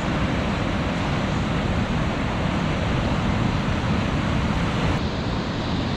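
Steady rush of ocean surf breaking on a beach, mixed with wind noise on the microphone.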